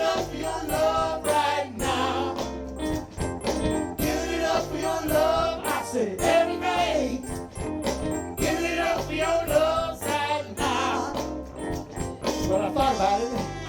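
Ten-piece soul band playing live: drums keeping a steady beat under a bass line, with a melody line carried over the top.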